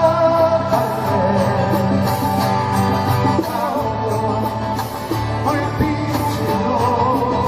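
A live song with a voice singing long, wavering held notes over instrumental accompaniment that includes guitar.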